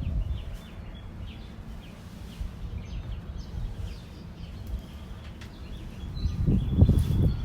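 Dawn chorus of small birds: many short, high chirps and calls scattered throughout, over a low rumble that swells into a louder burst near the end.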